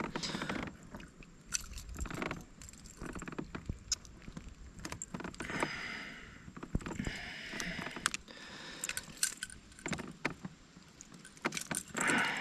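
Scattered small clicks, knocks and rattles of fishing gear being handled in a kayak, with a few short rustling noises in between.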